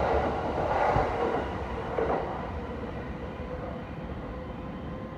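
Electric commuter train running past a station platform, with wheel noise and two sharp clicks over the rail joints. The noise falls away after about two seconds as the train leaves.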